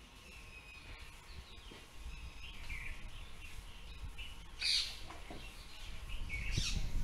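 Small birds chirping and calling, with a louder, sharp call about two-thirds of the way through and another near the end, over a low background rumble.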